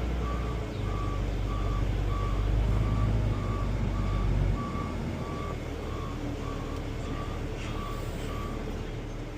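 Reverse alarm beeping about twice a second over the steady drone of a John Deere 9400T tracked tractor's diesel engine, as the machine is backed into place. The engine note drops about halfway through, and the beeping stops near the end.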